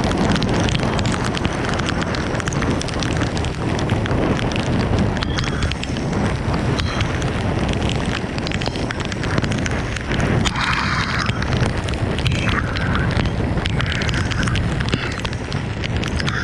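Steady rain falling hard, a dense patter of drops. A few brief higher-pitched sounds rise over it in the second half.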